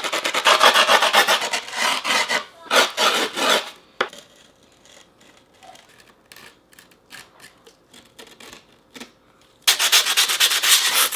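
Grip tape being rubbed and filed along the edge of a skateboard deck in quick rasping strokes. The strokes come thick and fast for the first four seconds, thin out to a few light scratches, then resume hard near the end.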